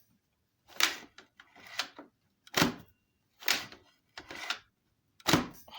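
A series of six hard plastic clacks, about one a second, from parts of a bagless upright vacuum being knocked and handled.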